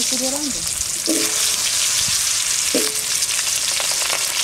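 Potato chunks frying in hot mustard oil with whole cumin seeds in a metal kadai: a steady sizzle with scattered crackles.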